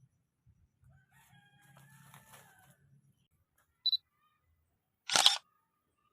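A faint drawn-out call with several stacked pitches in the first half, then a short high beep and, about five seconds in, a loud sharp click.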